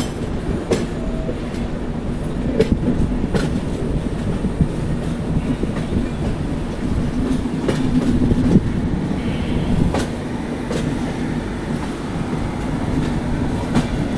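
Duronto Express train running along the track: a steady rumble with irregular sharp clicks of the wheels over rail joints.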